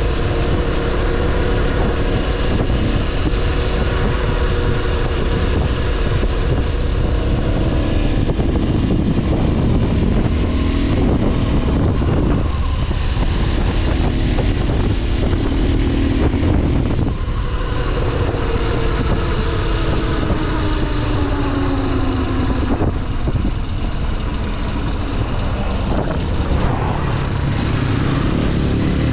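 Motorcycle engine running while riding, its pitch rising and falling with the throttle and gear changes. Heavy wind rumble on the microphone runs underneath.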